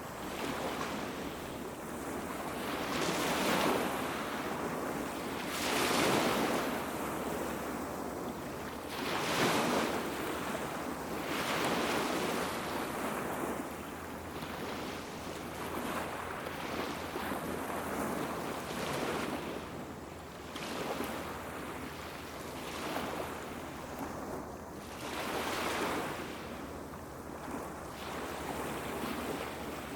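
Small sea waves breaking and washing up a beach, each swell of surf rising and falling away every few seconds.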